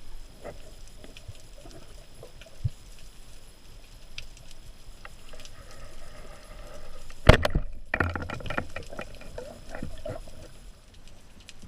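Underwater sound with scattered small clicks and crackles. About seven seconds in there is one sharp, loud knock, followed by a second or two of denser crackling.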